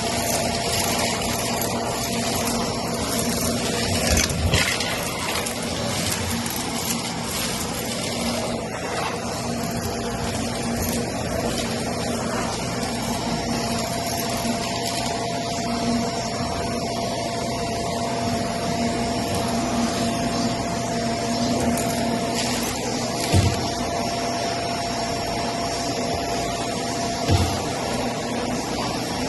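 Vacuum cleaner running steadily over carpet, a constant rushing noise with a steady hum and whine, and a few short knocks along the way.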